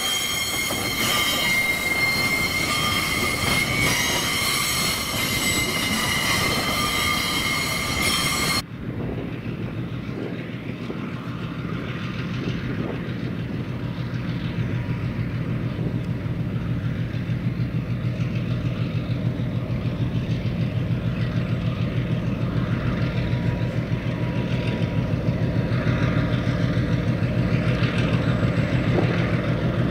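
Narrow-gauge gypsum hopper wagons rolling past with steel wheels squealing against the rail in several high steady tones. About nine seconds in, this cuts to a diesel-hauled train approaching: a Clyde EMD locomotive leading ALCO units, their engines running with a steady low drone that grows louder as they come closer.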